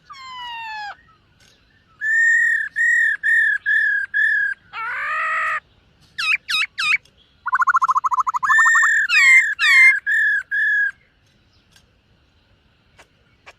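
Black-throated laughingthrush singing: a falling sweep, then a run of clear whistled notes about three a second, a harsh buzzy note, quick looping whistles and a fast trill, before it stops near the end.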